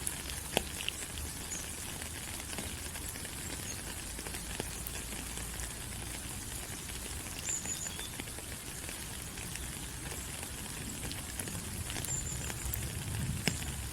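Steady tropical rain falling on rainforest leaves: an even hiss with scattered individual drops ticking close by, and a couple of brief high chirps in the background.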